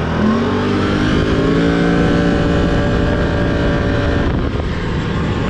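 Can-Am ATV engine accelerating: its pitch climbs over the first second and a half, holds steady under load, then drops off a little past four seconds in as the throttle eases.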